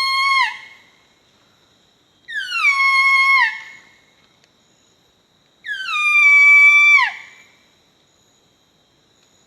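A man imitating a barking deer (muntjac) call: a loud whistle-like cry that slides down in pitch and drops off at the end, repeated three times about three seconds apart, the first already under way.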